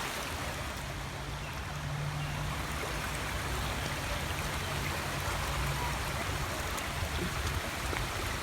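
Small woodland stream running steadily over rocks, a continuous rush and trickle of water.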